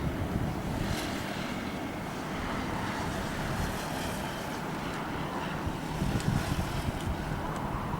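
Steady rumble of a jet airliner's engines, with wind buffeting the microphone.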